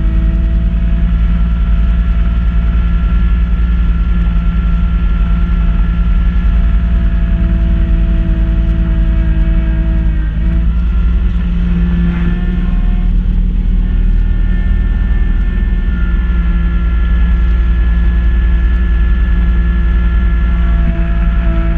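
Kubota B2650 tractor's diesel engine running steadily under load, driving a front-mount snow blower. About halfway through, the engine note wavers for a few seconds, then settles back to steady running.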